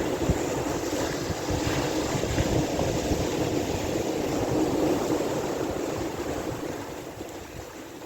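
Sea waves with wind rumbling on the microphone, a steady rushing noise that fades over the last couple of seconds.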